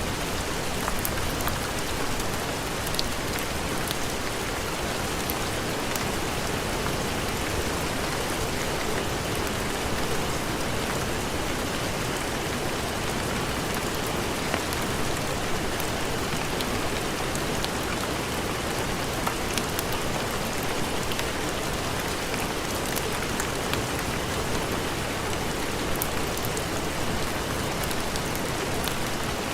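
Steady heavy rain: an even hiss with scattered small ticks of drops.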